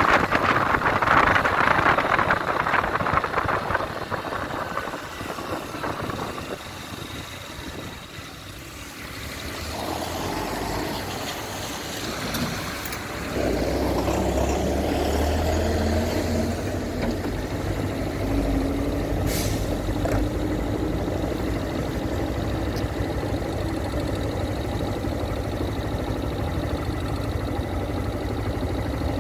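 Motorcycle on the move in the rain: loud wind and road noise on the helmet microphone for the first few seconds, dying down as it slows. From about halfway, a steady low engine idle, with a brief sharp hiss a few seconds later.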